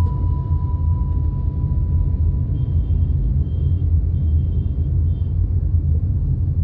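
Steady low road and engine rumble inside the cabin of a Maruti Suzuki Fronx on the move. A faint held tone fades away in the first couple of seconds, and faint short high tones come and go in the middle.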